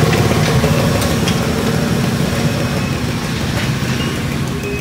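Steady low engine rumble of a car close by, over the general noise of a busy street.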